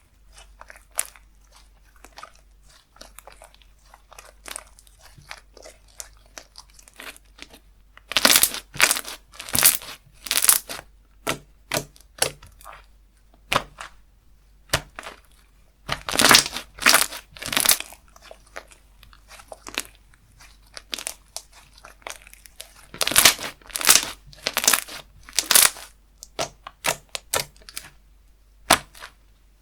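Slime being played with by hand: a run of small sticky clicks and crackles, with three louder stretches of rapid crackling as it is pressed and pulled.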